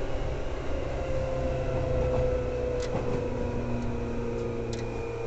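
Onboard running sound of a Seibu 2000 series electric train: a steady rumble of wheels on rail with motor and gear hum whose pitch drifts slowly. Twice there is a faint click.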